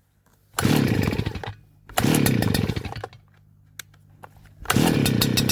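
Small petrol engine of a yard tool starting: it fires and runs for about a second, dies, fires again for about a second and dies, then catches near the end and keeps running.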